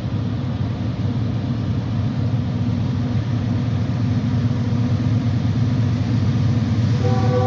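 Diesel locomotives of a CSX freight train running with a heavy, steady rumble. The multi-chime train horn starts to blow near the end.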